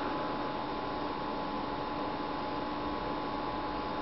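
Steady electrical hum with an even hiss under it, holding level throughout: background noise of the recording, with no sound from the tarantula or its prey.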